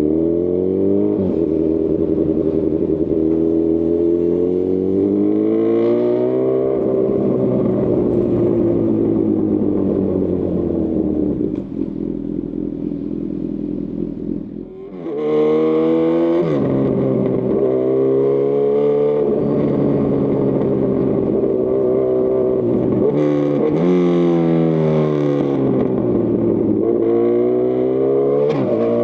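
2018 Honda CB1000R's inline-four engine through a Lextek CP1 full exhaust, heard from on the bike. It pulls up with rising pitch and drops back several times as the gears change. It goes quieter for a few seconds past the middle, then accelerates hard again with repeated rises and falls.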